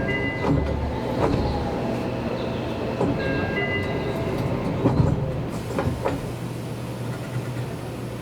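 Seibu Railway electric train running, with a steady rumble and the wheels clicking over rail joints several times. Brief high tones sound near the start and again around the middle.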